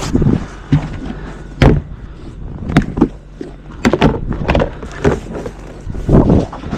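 Irregular thuds and bangs, about ten of them spread across a few seconds, the loudest a little under two seconds in.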